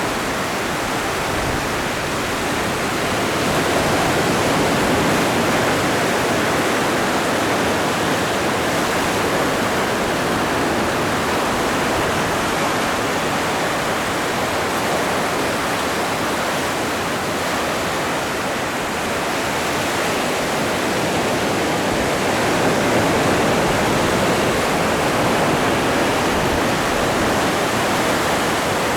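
Atlantic surf: waves breaking and washing on the shore as a dense, steady rush of water, swelling a little about four seconds in and again a little past twenty seconds.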